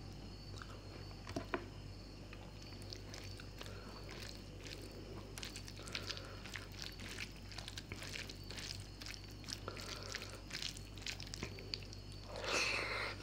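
Close-miked chewing and wet mouth sounds of a person eating fish curry with rice: many small scattered clicks and smacks, with one brief louder noise near the end.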